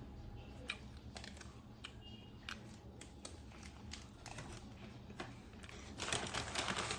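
Light clicks and taps of fast-food packaging being handled, then paper packaging crinkling loudly about six seconds in.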